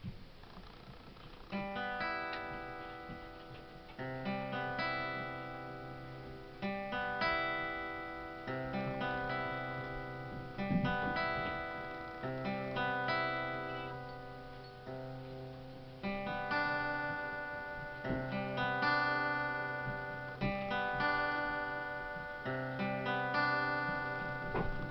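Solo acoustic guitar playing a slow instrumental, with chords strummed every second or two and left to ring out over a low bass note. It begins about a second and a half in.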